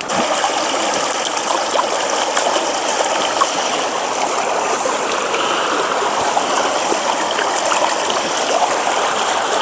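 Rain-swollen woodland river in spate, its water rushing with a steady, even roar.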